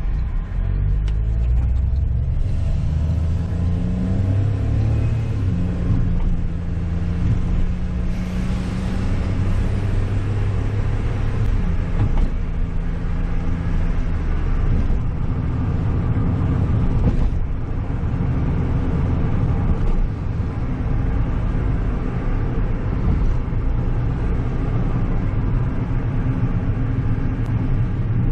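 A car driving, heard from inside the cabin: a steady low engine hum under tyre and road noise, the engine note shifting up and down with speed.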